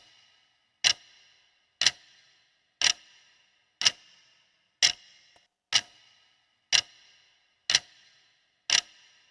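Clock ticking for a quiz countdown timer, one sharp tick about every second, each with a short metallic ring.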